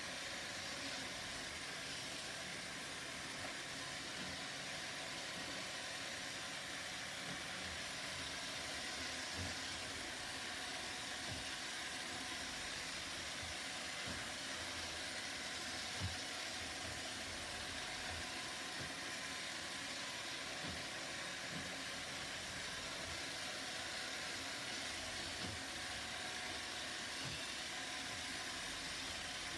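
Roomba robot vacuum running: a steady whirring hiss from its fan and brushes, with a few soft low knocks scattered through, the loudest about sixteen seconds in.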